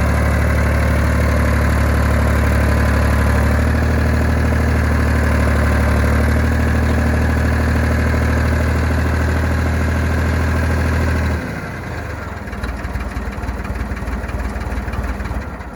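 John Deere 350B crawler dozer's diesel engine idling steadily, then shut off about eleven seconds in, its steady hum cutting out abruptly to leave a quieter, uneven rattle.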